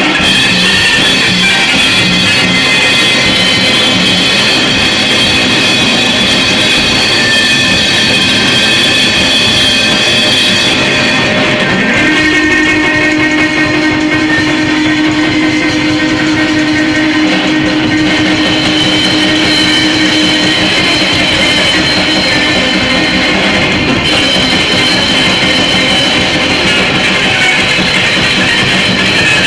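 Loud, dense noise music: an unbroken wall of distorted sound filling the whole range, with no pauses. About twelve seconds in, a steady low drone tone enters and holds for roughly nine seconds before fading back into the mass.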